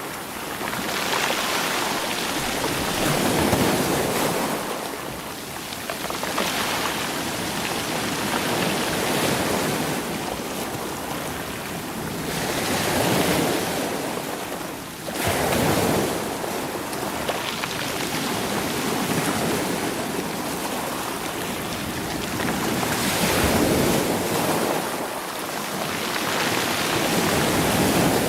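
Sea waves washing against rocks and rolling stones, each surge swelling and drawing back every few seconds, with one sharper surge about halfway through.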